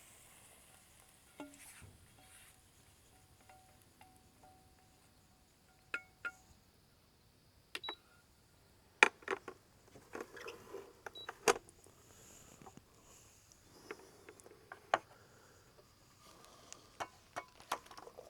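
Scattered clinks and knocks of a utensil against cookware as ingredients are scraped and tipped into a dish, with quiet gaps between. The sharpest knocks come about halfway through.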